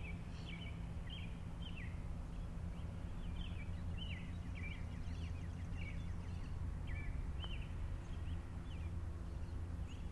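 A songbird chirping over and over, short downward-sliding notes about twice a second, over a steady low outdoor rumble.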